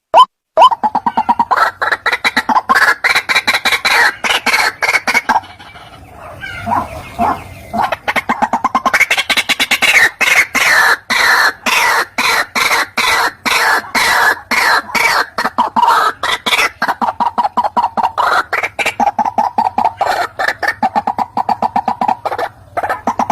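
White-breasted waterhen (ruak-ruak) calling in a fast, loud series of repeated harsh notes, several a second, played as a bird-trapping lure call. About six seconds in the calling drops to a brief lull of softer notes, then the rapid series resumes.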